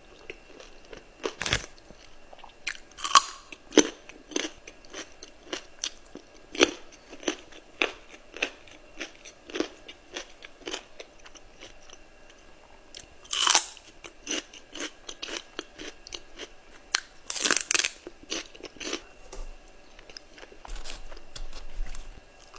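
Close-up eating sounds: a person biting into and chewing crispy fried chicken wings, with irregular crunches and a few louder bites scattered through.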